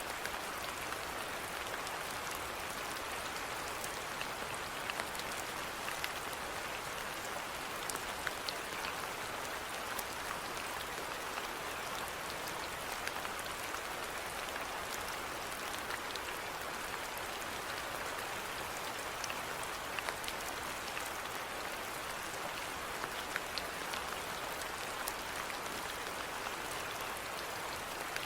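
Steady rainfall: an even hiss of rain with many individual drops ticking and pattering on a surface throughout.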